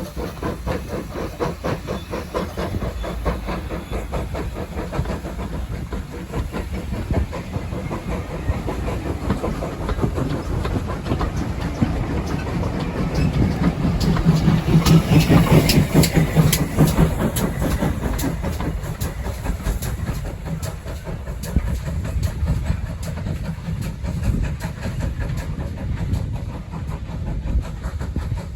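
Steam locomotive and its train running past, with a rapid rhythm of exhaust beats and wheel clatter that grows louder toward the middle, when the train is nearest, then fades away.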